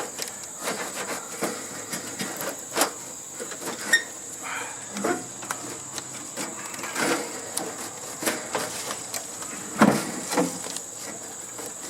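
Irregular clicks, knocks and clanks of tools and sheet-metal parts being handled while a hotel heating and air-conditioning unit is taken apart, with a louder knock near the end.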